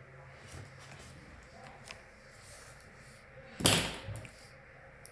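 A single loud thud about three and a half seconds in, over faint room noise.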